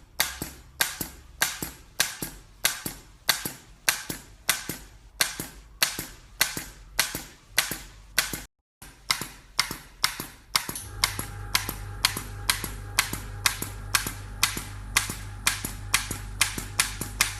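U225 injector gun firing repeatedly, a steady run of sharp clicks about two to three a second, with one short pause a little after halfway. About eleven seconds in, a low steady hum joins under the clicks.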